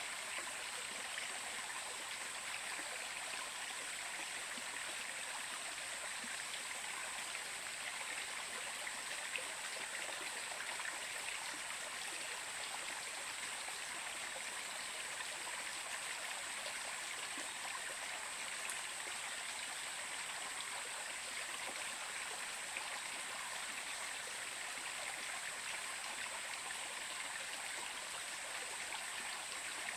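Water flowing in a stream, a steady, even rush with no change throughout.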